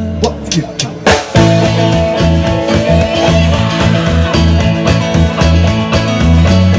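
Rock band music: a held chord stops, a few drum hits follow, and about a second and a half in the band comes in with a pulsing guitar and bass rhythm.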